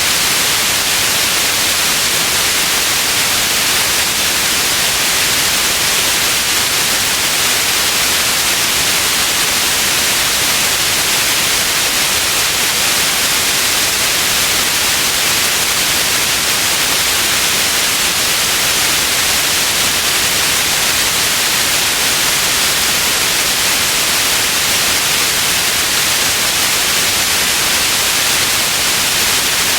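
Synthetic white noise: a steady, even hiss that never changes, strongest in the treble.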